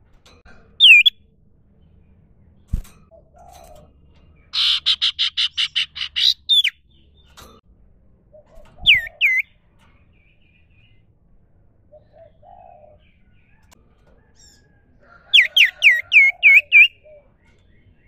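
Sirtu (common iora) calling: a single hooked whistle, then a loud, rapid buzzy trill of about a dozen notes, a pair of whistles, and near the end a quick run of about six hooked whistles.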